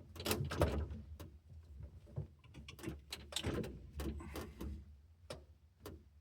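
Scattered clicks, knocks and rustling as someone shifts about on a truck's bench seat in the cab, thinning out toward the end.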